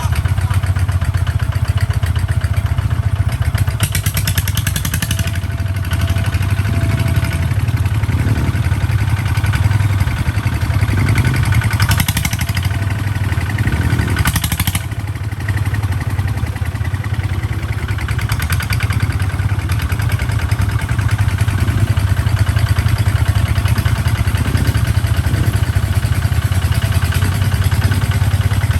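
Kubota tractor's diesel engine running steadily under load, with a few brief bursts of clatter.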